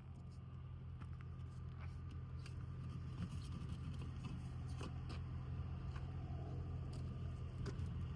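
Truck engine idling, a steady low hum, with scattered light clicks and taps over it.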